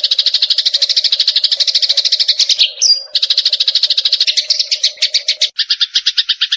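Eurasian tree sparrow chattering in a rapid run of chirps, about a dozen a second. The run breaks briefly with a short rising note about three seconds in. A run of chirps with a lower note added takes over about five and a half seconds in.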